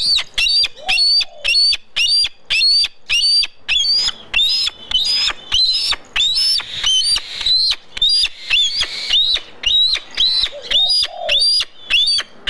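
A parrot calling over and over: short, loud, shrill squawks repeated about two to three times a second in a steady rhythm.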